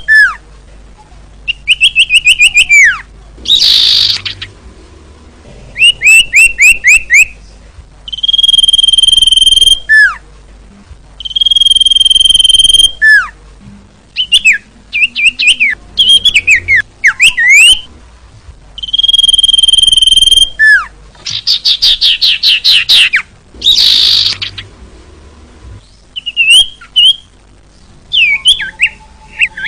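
Female common iora (cipoh/sirtu) calling. Long steady whistles that drop away at the end recur every few seconds, alternating with quick runs of chirping notes and two short buzzy bursts.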